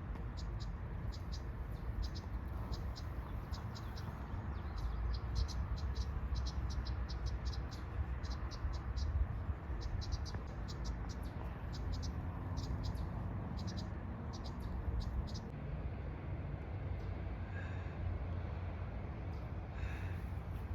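Insects chirping in many short, quick high pulses that stop about three-quarters of the way through, over a steady low rumble.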